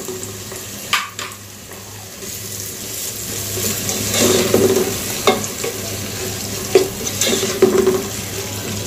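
Egg going into a hot wok of frying vegetables and prawns, sizzling, while a spatula stirs and scrapes the pan, with a few sharp clicks of the spatula against the pan.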